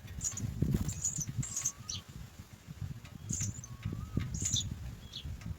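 House sparrow chicks cheeping in the nest while waiting to be fed, giving about six short, very high-pitched calls over low rustling and bumping.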